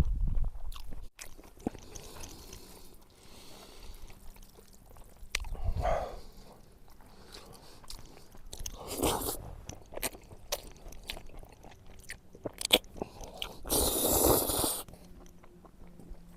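A person chewing and biting food with small wet mouth clicks, and louder bursts about 9 and 14 seconds in.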